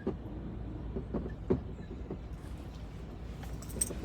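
Semi truck's diesel engine running low and steady while the truck reverses, with a few short knocks and rattles.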